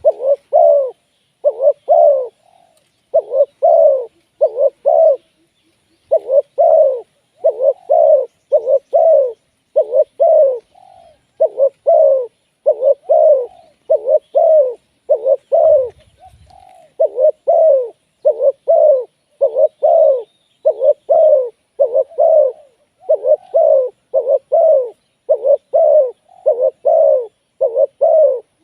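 Spotted dove cooing close up: short, low coos repeated mostly in pairs or threes, with a couple of brief pauses.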